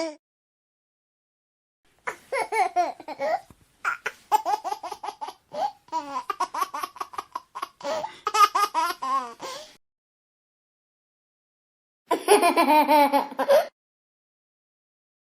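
Baby laughing: several seconds of choppy, rhythmic giggles, then after a pause of about two seconds a short burst of hearty laughter. The laughter starts about two seconds in.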